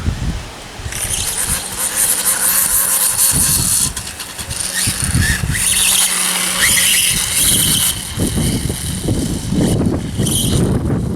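An RC model dirtbike running, its electric motor and drivetrain giving a steady high-pitched whine that starts about a second in. Low gusts of wind rumble on the microphone.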